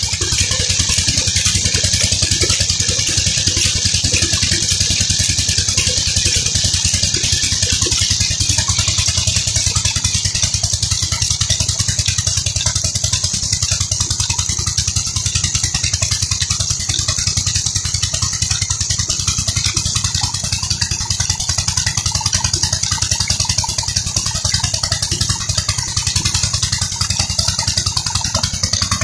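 Peter 16 HP tube-well diesel engine running steadily at a constant speed, with a fast, even beat of firing strokes.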